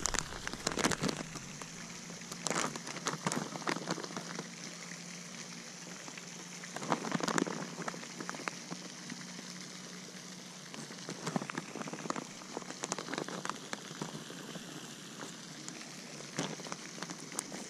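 Someone chewing beef jerky: irregular crackly crunches in clusters, with a louder bout about seven seconds in.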